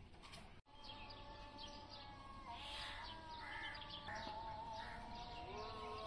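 Small birds chirping in many short, repeated calls over a few held, slightly wavering tones that shift pitch now and then; the sound drops out briefly just under a second in, at an edit.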